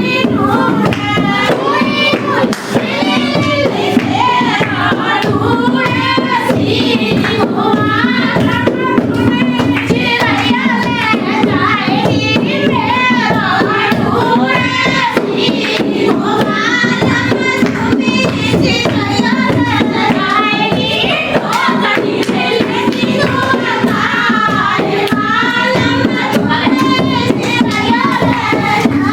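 A woman singing a Hindi dehati folk song (lokgeet) in a wavering, ornamented melody, over steady rhythmic percussion accompaniment.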